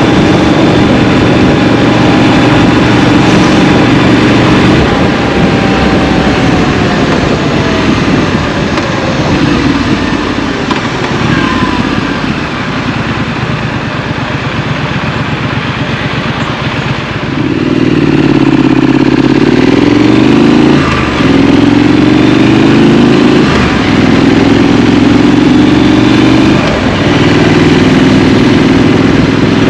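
Scrambler motorcycle engine heard from the rider's seat: a steady note at first, then the pitch slowly falls as the bike slows and the engine goes quieter. A bit past halfway it pulls away hard, the engine note climbing in four rising pulls with a short drop at each of three gear changes.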